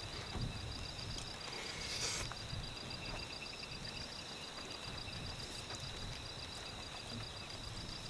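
Insects trilling steadily at a high pitch, one with an unbroken trill and another pulsing rapidly just above it, over a low rumble of wind. A brief rushing burst about two seconds in.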